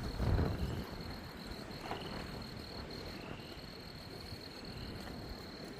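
Steady high-pitched trill of a night insect or frog chorus over a low rumble, with the rumble loudest in the first second.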